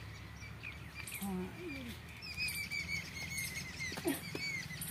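Small birds chirping: a quick run of short, high chirps starting about two seconds in, over faint distant voices.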